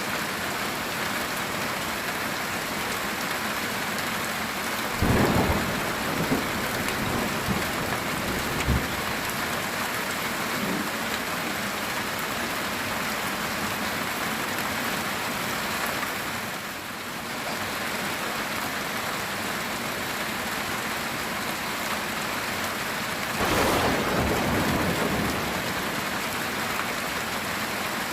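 Heavy rain falling steadily on a metal tin roof, with thunder twice: a sudden crack about five seconds in that crackles on for a few seconds, and a second rumble about twenty-three seconds in.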